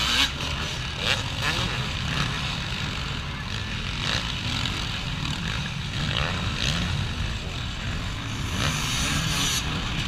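Motocross motorcycle engines running and revving, heard over a steady low rumble.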